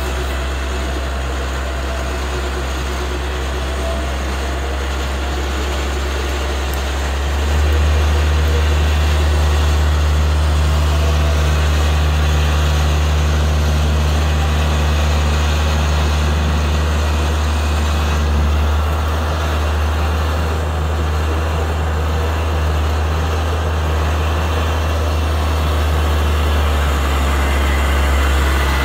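Vehicle engine running steadily with a low drone, which steps up louder about seven seconds in and eases back near the end.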